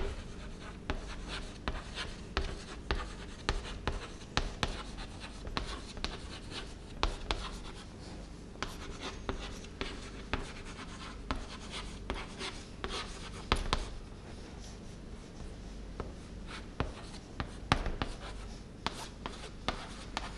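Writing on a board: a steady run of irregular taps and short scratchy strokes, several a second, as words are written out.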